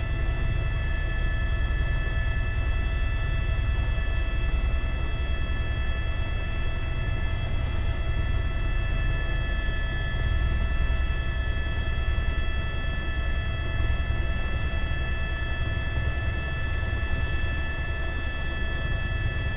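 News helicopter cabin noise picked up by the reporter's microphone: a steady low rotor rumble with a constant high turbine whine over it, unchanging throughout.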